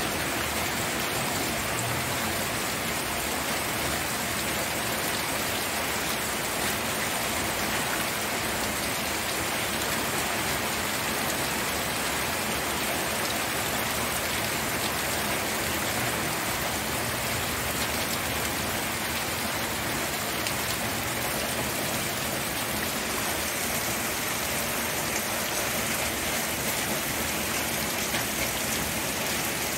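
Steady rain falling, raindrops pattering on surfaces in an even, unbroken hiss.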